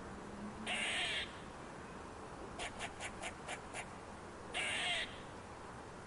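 Tassel-eared squirrel giving alarm calls: a harsh, raspy call about a second in and another near the end, with a quick run of six or seven short chucks in between.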